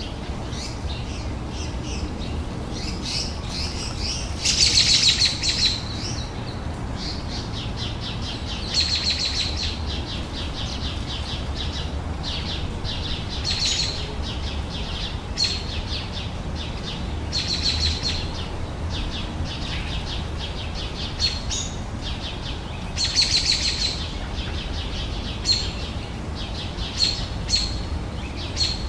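Songbirds chirping and trilling in a garden, short phrases repeated through the whole stretch, with louder bursts about five seconds in and again near the end. A steady low rumble sits underneath.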